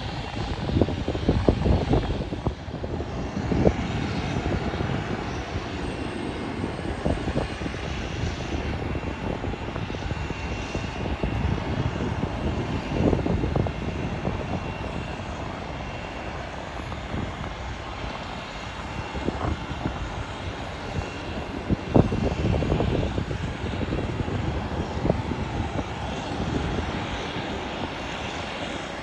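Airliner engines running at an airport, heard through gusts of wind buffeting the phone's microphone. The wind gusts make uneven low rumbles and thumps. A faint steady whine sits above them.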